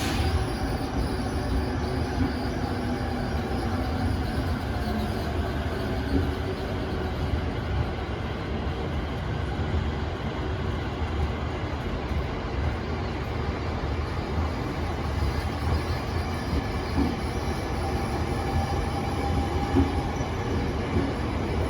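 Train rolling steadily past on the rails, an even rumble of wheels on track that holds for the whole stretch.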